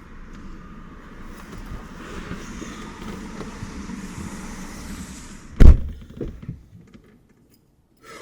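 Steady rumbling background noise, then a single loud thump followed by two lighter knocks, after which the sound cuts to silence.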